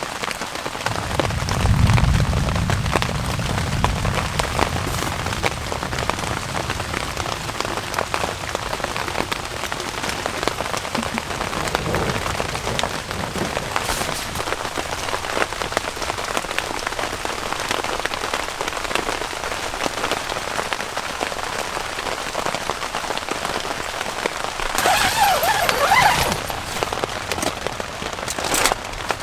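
Steady rain falling, many individual drop hits over a constant hiss. A low rumble of thunder starts about a second in and lasts a few seconds. A brief louder burst comes near the end.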